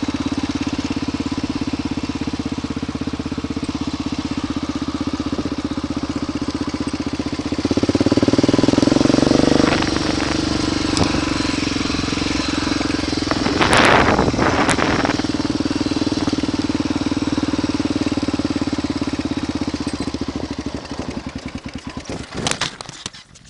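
Honda 350 four-stroke motorcycle engine running steadily at low speed, with the revs raised for a couple of seconds about a third of the way in and a brief loud rushing noise around the middle. Near the end the engine is switched off, its firing slowing to separate pulses before stopping.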